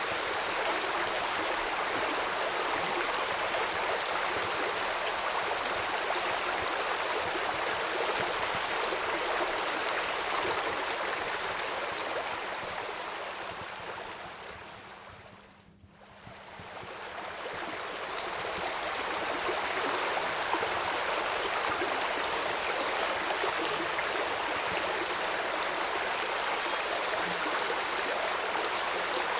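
Steady rushing of a flowing stream, an even watery hiss. About halfway through it fades down to near silence and swells back up over a few seconds. Faint high chirps repeat about once a second in the first third.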